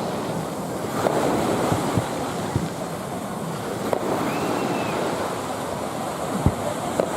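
Surf washing on the beach with wind buffeting the microphone, and a few scattered sharp pops from fireworks going off in the distance.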